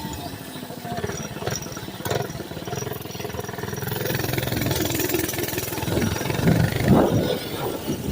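Mini bike's small engine running, revving up from about halfway through to a peak around seven seconds in, then easing back.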